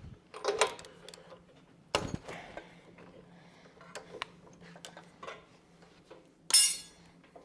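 Metal wrenches clinking and knocking on metal in short, separate clicks while spark plugs are being taken out of an aircraft engine, with one louder clatter near the end.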